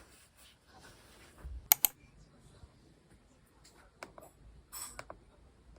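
A sharp double click about two seconds in, followed later by a few lighter clicks and taps, like small hard objects being handled.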